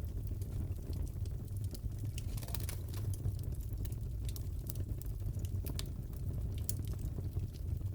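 Crackling fireplace: frequent small pops and snaps over a steady low rumble of burning.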